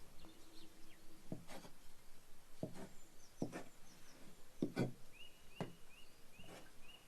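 A series of irregular sharp knocks, about eight of them, some in quick pairs, like wood or utensils being struck. From about five seconds in, a bird chirps a run of short, evenly spaced notes.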